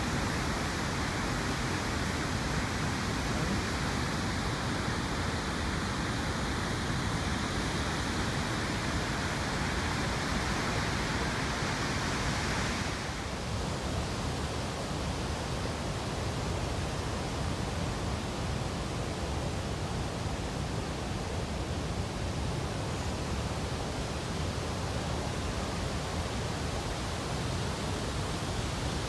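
Steady rushing of river water over rocks, a continuous hiss; about halfway through it suddenly turns duller and slightly quieter.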